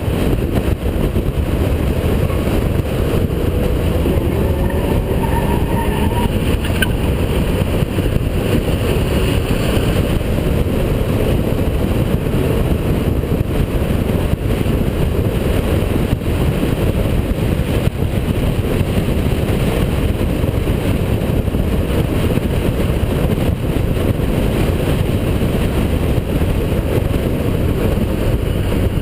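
Holden VP Commodore's 3.8-litre V6 at speed on a race track, heard as a loud, steady rush of low engine, road and wind noise, with the engine note faintly rising and falling in the first few seconds.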